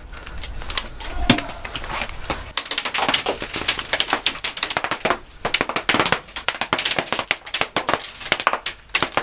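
Airsoft gunfire: rapid, irregular sharp clicks and cracks of shots and BBs striking, thickening into a dense patter about two and a half seconds in.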